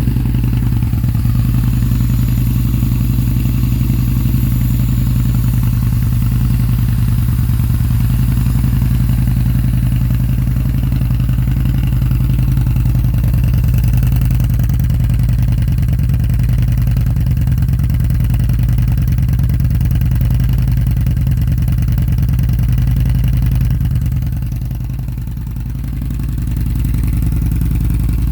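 2018 Yamaha Bolt's air-cooled V-twin, breathing through an aftermarket Bassani slash-cut exhaust, idling steadily just after a cold start. The level drops briefly a few seconds before the end, then comes back up.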